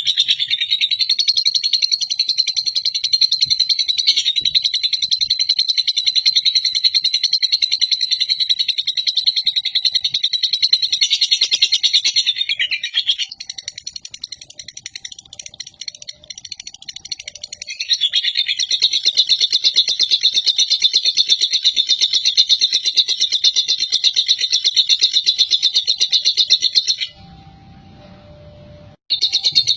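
A lovebird's long, rapid chattering song ('ngekek panjang'), a dense high-pitched trill prized in singing competitions. It runs unbroken for about twelve seconds, softens for several seconds, returns for about nine more, and stops briefly near the end.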